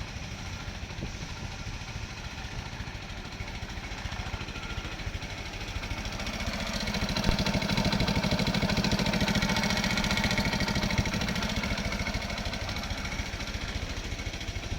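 Hero Honda Splendor motorcycle's single-cylinder four-stroke engine running with a steady, fast beat. It grows louder about six seconds in, holds for a few seconds, then eases back.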